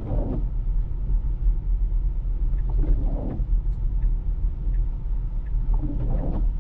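Low, steady road rumble inside an electric Tesla's cabin as it drives on a snow-covered road, from the tyres on snow and slush, with brief swells of noise now and then.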